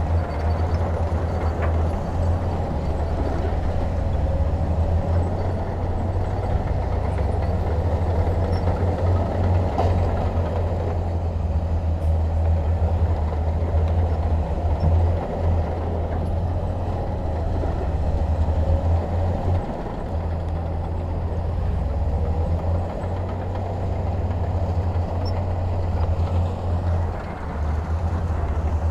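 Heavy diesel engine of earthmoving machinery running steadily, with most of its sound deep in the low end.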